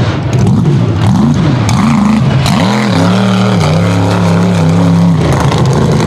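Mega truck's big engine revving hard and loud, its pitch swinging up and down several times. About halfway through it holds at one steady pitch for roughly two seconds, then drops and rises again near the end.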